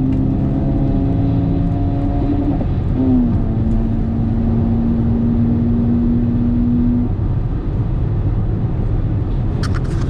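BMW M135i F40's turbocharged four-cylinder engine heard from inside the cabin, running at a steady pitch over road and tyre rumble, with a brief break and short rise in pitch about three seconds in. The engine tone fades out about seven seconds in, leaving the tyre and road rumble.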